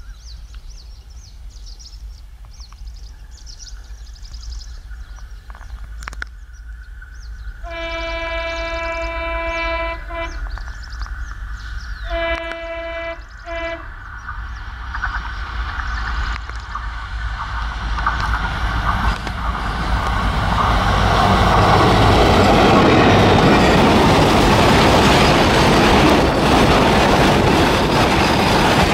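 A WDG4 diesel freight locomotive sounds its horn on the approach: a long blast about eight seconds in, then a shorter blast and a brief toot. It then rolls past with its covered BCNA wagons, the rumble and clatter of wheels on the rails growing loud and staying loud through the second half.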